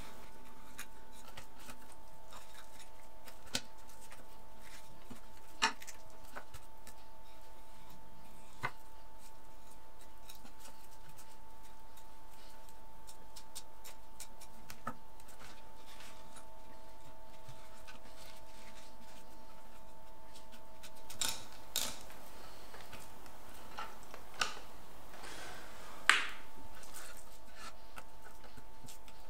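Kitchen knife filleting a small red mullet on a wooden cutting board: sparse light clicks and taps of the blade on the board and fish, the sharpest about 26 seconds in, over a steady high hum.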